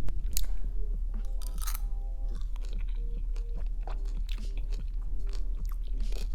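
Close-miked chewing of a bite of juicy dragon fruit, with many short wet mouth clicks scattered through.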